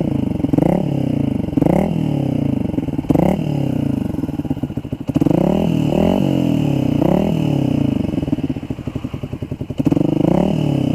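Yamaha Xabre's single-cylinder engine revving through a Tridente F22 carbon aftermarket exhaust with its valve in the half-open 'street legal' mode. The revs rise and fall in a series of throttle blips, with a longer run of revving in the middle.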